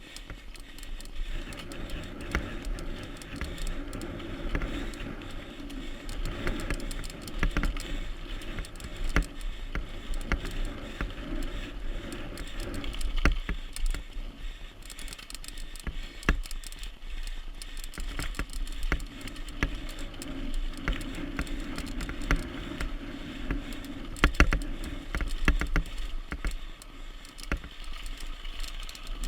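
Mountain bike ridden over rough ground: constant clicking and rattling from the chain and frame over tyre noise, with a low rumble underneath.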